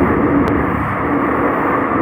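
Seoul Subway Line 5 train running, a steady loud noise of wheels and motors on the rails, with one faint click about half a second in.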